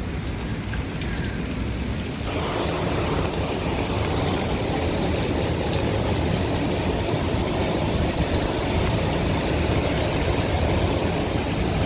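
Hurricane-force wind blowing in a constant rush, which sounds like a freight train. It swells in a gust about two seconds in and stays strong.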